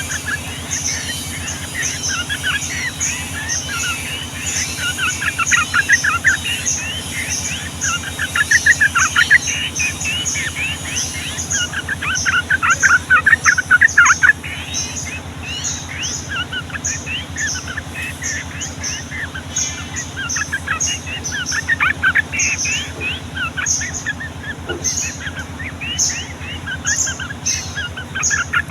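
Yellow-vented bulbuls (trucukan) singing a long, busy run of chattering, rolling phrases, loudest in two bursts in the middle. A short high chip repeats at a steady pace throughout, over a steady low hum.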